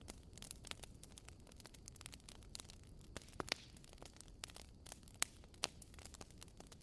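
Burning firewood crackling softly, with irregular small snaps and a few sharper pops about three and a half seconds in and again near five seconds.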